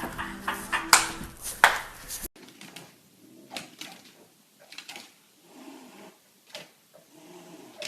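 Music with a steady beat and sharp clicks, cut off suddenly about two seconds in, then a scatter of light knocks and taps, like small hard objects being bumped or moved.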